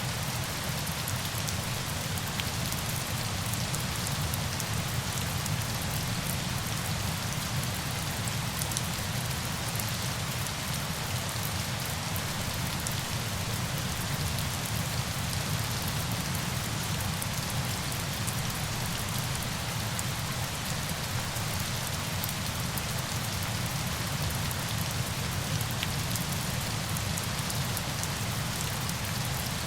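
Steady rain, a dense even hiss with a low rumble under it and fine ticks of drops, unchanging throughout.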